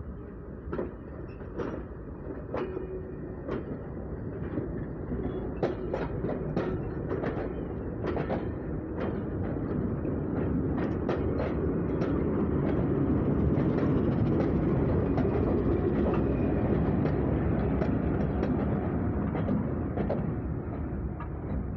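Diesel-hauled passenger train rolling past close by, its wheels clacking over the rail joints. The rumble builds to its loudest midway and eases off near the end.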